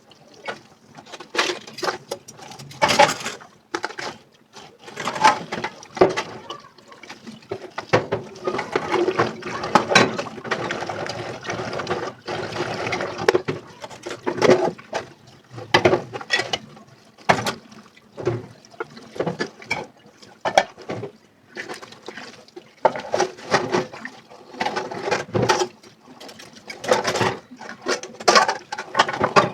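Dishes being washed by hand at a sink: water running and splashing, with frequent irregular clinks and knocks of dishes against each other.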